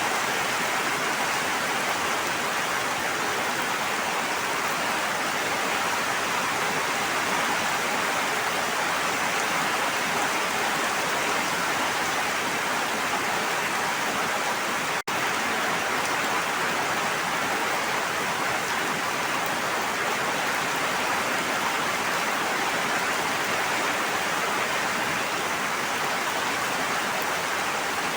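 Steady, even water noise with no change in level, broken by a split-second gap about halfway through.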